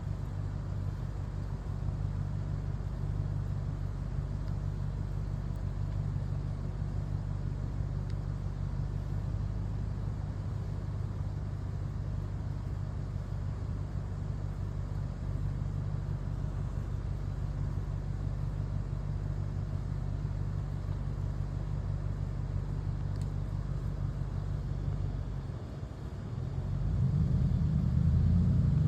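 Steady low mechanical hum. About 26 seconds in it dips, then a louder low rumble builds near the end.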